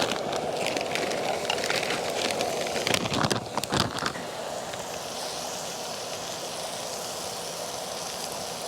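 Shrimp frying in butter in a pan over a fire: a crackling sizzle with a few sharp clicks about three to four seconds in, settling to a steadier hiss.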